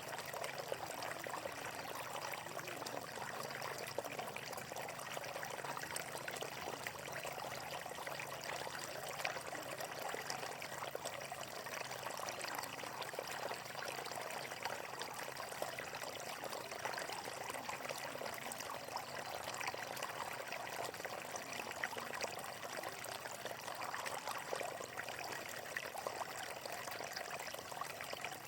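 Water flowing and splashing steadily, a continuous babbling with fine crackle and no change in level.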